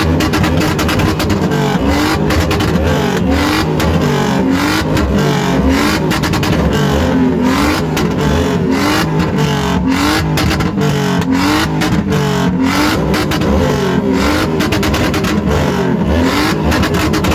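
Mercedes supercharged V8 running hard and revving, its pitch rising in short sweeps again and again.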